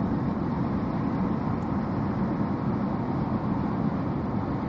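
Steady noise of a car driving through heavy rain and strong wind, heard from inside the cabin.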